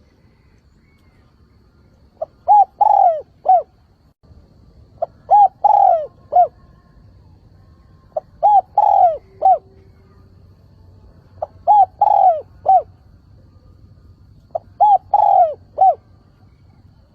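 Spotted dove cooing its calling song: five phrases about three seconds apart. Each phrase is a few short coos around one longer, falling coo. This is a decoy bird's call, used to lure wild doves.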